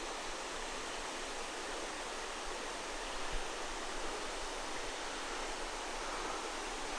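A small creek waterfall with water rushing steadily over a rock shut-in.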